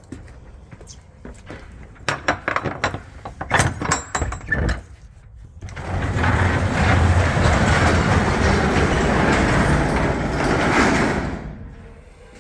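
A box truck's rear cargo door being unlatched with a series of metal clanks and knocks, then rolled up with a loud, steady rattling noise of about five seconds that dies away near the end.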